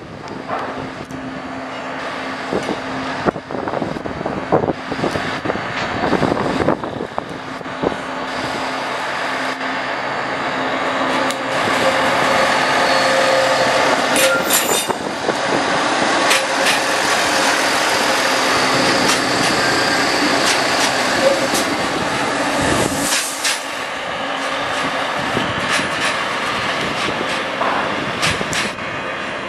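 NEG VT 71 B twin diesel railcar running at the platform. Its engine noise swells about a third of the way in and stays loud, with scattered clanks and a brief high hiss about halfway through.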